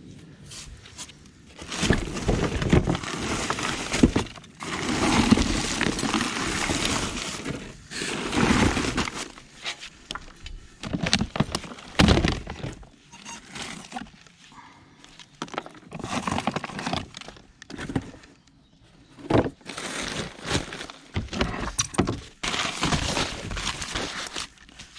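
Rubble and debris in a skip clattering and crunching as it is shifted about by hand, in irregular bursts with sharp knocks and short pauses between.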